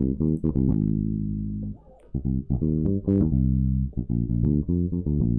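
Electric bass guitar playing a triad pattern on the IV chord, note by note. The notes stop briefly just under two seconds in, then a quicker run of short notes follows.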